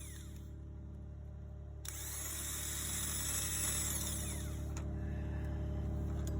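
Power tool running steadily on an engine mount bolt, a continuous machine whir that grows slowly louder.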